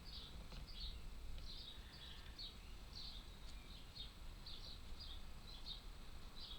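A small bird chirping over and over, short high chirps about three a second, over a faint low hum.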